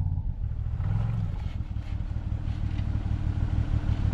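Off-road vehicle engine working at low speed as it crawls over obstacles, its tone rising and falling with the throttle and climbing briefly about a second in.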